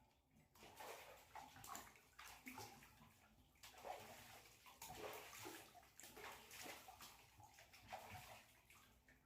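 Faint water splashing and sloshing in a bathtub as a puppy is washed, in short irregular swishes.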